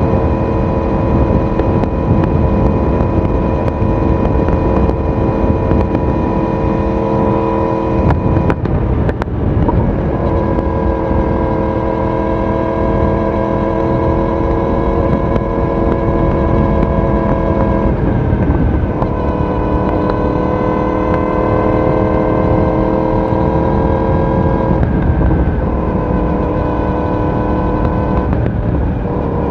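Yamaha YZF-R1 inline-four engine and exhaust running at a steady cruise, with wind and road rush underneath. The engine note breaks briefly several times for gear changes, and the pitch steps down after some of them.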